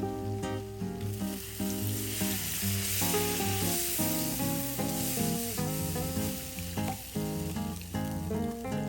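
Food sizzling in a hot frying pan, the sizzle swelling louder through the middle, over acoustic-guitar background music.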